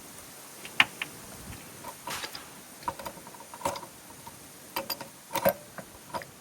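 Hand tools clicking and clinking on metal as a fitting is worked on: irregular sharp clicks and knocks, a few ringing briefly. The loudest come just under a second in and about five and a half seconds in.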